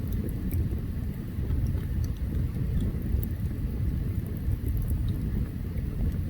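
Open campfire burning, with a steady low rumble underneath and sparse, small crackles and pops scattered through.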